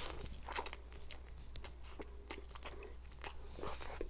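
Close-miked mouth sounds of a person eating stir-fried Korean noodles: a mouthful drawn in at the start, then chewing with many small wet clicks and smacks.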